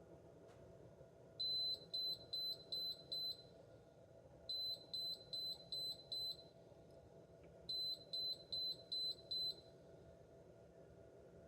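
OXO coffee maker's electronic alert beeping: three quick runs of short, high beeps, about three seconds apart. The owner presents it as the CLN (clean) error that the machine keeps giving even after 10 or 12 cleaning cycles.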